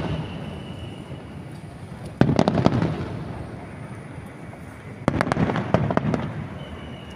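Aerial fireworks bursting in two volleys, each a cluster of rapid bangs and crackles that rumbles away over a second or two, the first about two seconds in and the second about five seconds in.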